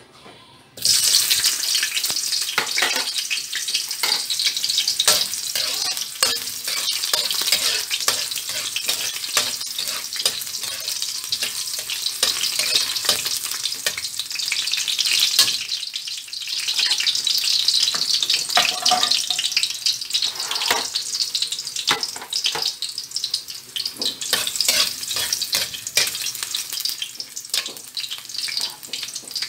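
Sliced ginger sizzling in hot oil in a wok, a dense crackling hiss full of small pops that starts suddenly about a second in.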